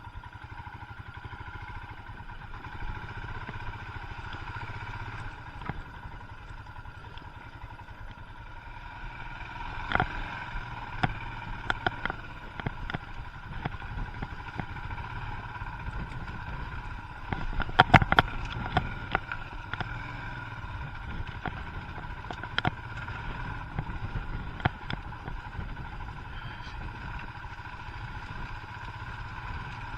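Royal Enfield Himalayan's single-cylinder engine running steadily at low revs on a muddy track, with scattered sharp knocks and clatter from the bike over rough ground, loudest about eighteen seconds in.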